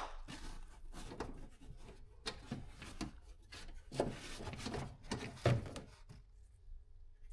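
Faint, irregular clicks, knocks and scrapes of a 10mm socket wrench working on the window guide rail's bolts inside a car door.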